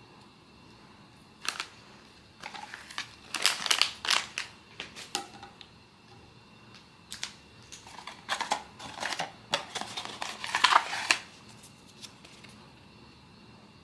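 Blind box packaging being handled and opened: crackly rustling and crinkling in bursts, one short rustle, then two longer spells of several seconds each.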